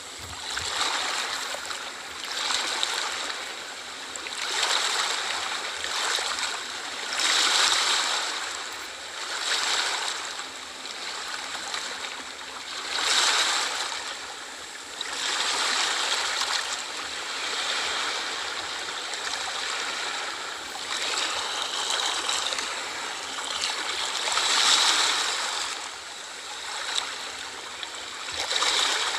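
Small sea waves washing in on the shore, a hissing rush that swells and fades every few seconds.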